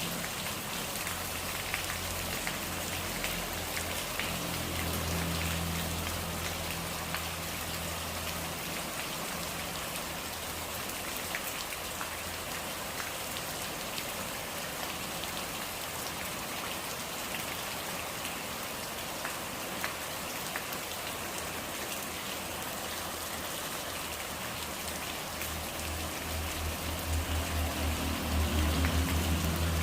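Steady rain falling, a continuous hiss with scattered drops ticking. A low rumble rises under it in the first few seconds and grows louder again near the end.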